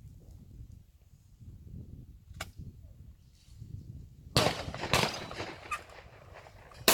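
Two shotgun shots about half a second apart, a little past the middle, each with a short echo, then another sharp shot right at the end.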